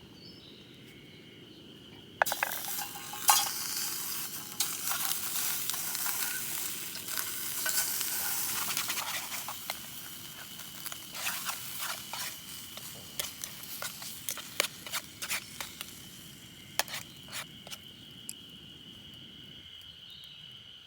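Sizzling hiss with crackles and pops starts suddenly a couple of seconds in, then dies down over several seconds to scattered pops. A steady insect trill runs underneath.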